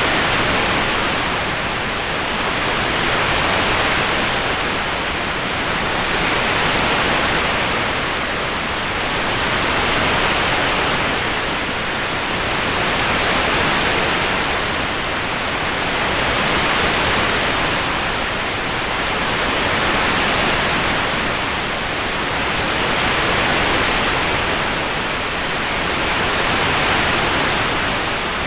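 Rain ambience: a constant, even hiss that swells and eases gently about every three seconds.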